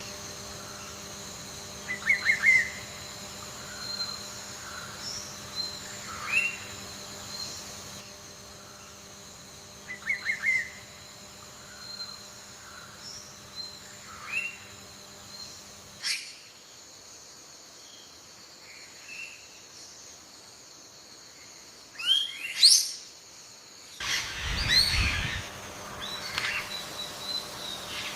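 Birds chirping, with short trills and quick rising whistled calls, over a steady high insect drone. The background changes abruptly a few times, and there is a brief low rustle near the end.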